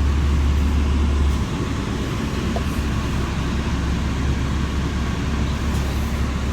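Steady engine and road rumble heard inside the cabin of a moving city transit bus; a deep low drone eases off about a second and a half in.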